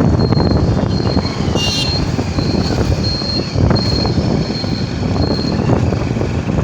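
Motorcycle ride: steady engine rumble and wind noise on the microphone. A high electronic beep repeats about every 0.7 seconds.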